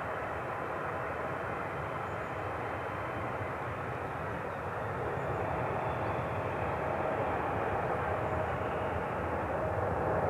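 Boeing 777 jet engines at takeoff power: a steady, dense noise with a faint held hum, growing slightly louder toward the end.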